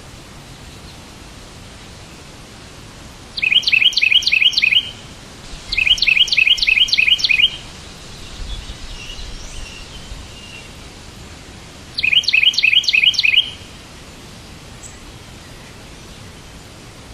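A bird chirping in three quick bursts of rapidly repeated high notes, each burst lasting about a second and a half, with fainter chirps between the second and third bursts, over a steady background hiss.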